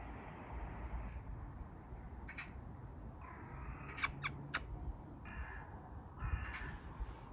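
A sleeping Jackapoo dog snoring quietly in short rasping breaths, with a few sharp clicks about four seconds in.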